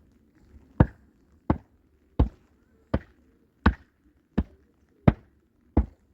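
Repeated heavy blows of a struck tool, eight in all at an even pace about 0.7 seconds apart.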